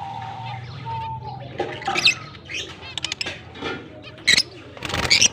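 Lovebirds giving short harsh squawks among scattered clicks and scratching.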